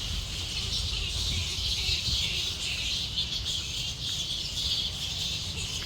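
A dense, steady chorus of insects such as crickets, shrill and unbroken, over a low rumble.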